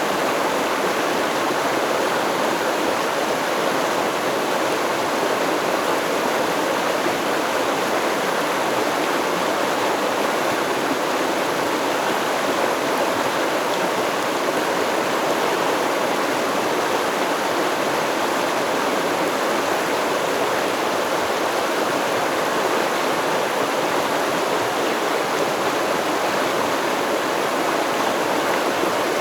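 Stream water flowing, a steady, even rush that never breaks or changes.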